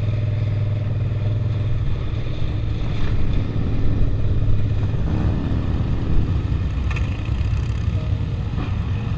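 Suzuki SV650's V-twin engine running as the motorcycle is ridden, heard from a helmet-mounted camera. The engine note is steady at first and gets a little louder and rougher from about three seconds in.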